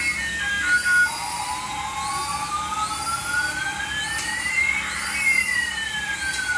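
Electronic siren-like sound effect: a warbling tone that repeats about once a second over a steady beep, with a slow pitch glide that rises for a few seconds and then falls.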